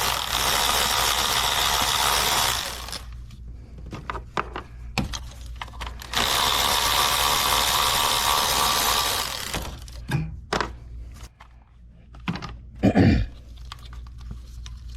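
A power tool spinning out ignition coil hold-down bolts in two runs of about three seconds each, followed by a few clicks and a knock as the loosened parts are handled.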